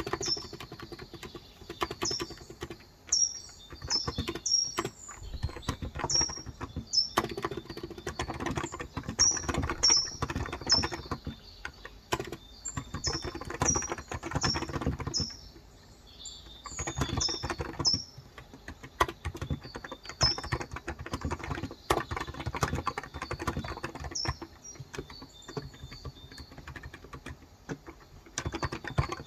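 Fast typing on a COX Endeavor electro-capacitive tenkeyless keyboard with light 35 g switches, a dense run of key clicks in bursts with short lulls. Small birds chirp over it in short, repeated high notes.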